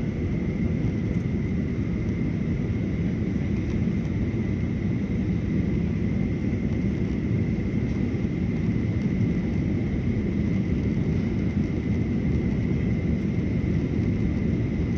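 Steady rumble of airliner cabin noise from the engines and rushing air during the landing approach, with a thin, constant high whine over it.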